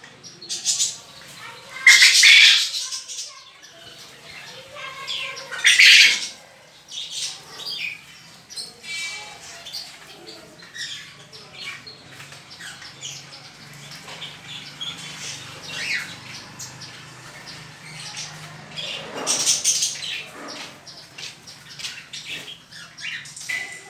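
A canary and zebra finches bathing in water: bursts of splashing and wing fluttering about two seconds in, around six seconds in, and again near the end, over frequent short chirping calls.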